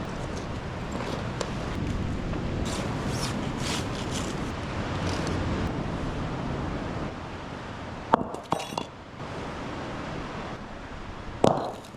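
Steady wind and surf noise with scattered rustles and light clinks as a tent is handled and pitched, and two sharp knocks, about eight and eleven and a half seconds in.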